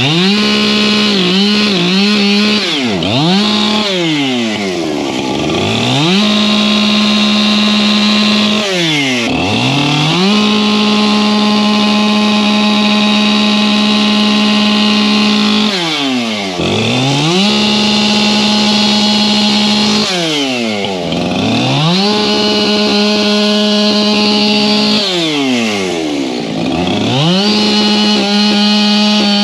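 Husqvarna two-stroke chainsaw cutting firewood, held at a high, steady pitch through the cuts. Five or six times the engine drops quickly toward idle and revs straight back up between cuts.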